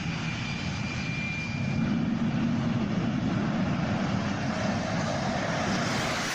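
Jet engine of a jet-powered drag vehicle running steadily, a dense rushing noise that grows a little louder about two seconds in.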